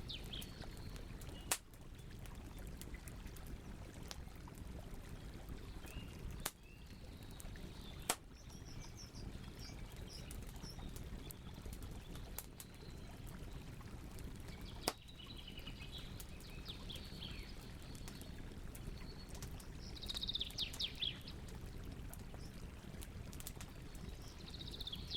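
Campfire burning with a steady low rush and a few sharp pops several seconds apart. Birds chirp and tweet in short phrases now and then, with a livelier run of chirps about twenty seconds in.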